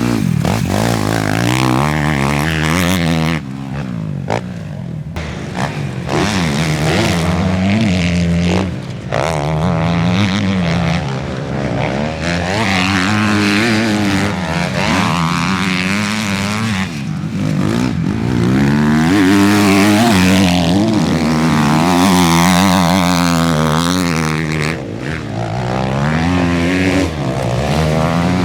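Suzuki RM-Z four-stroke motocross bike engine being ridden hard on a dirt track, its pitch climbing and dropping over and over as the rider opens and closes the throttle through the gears.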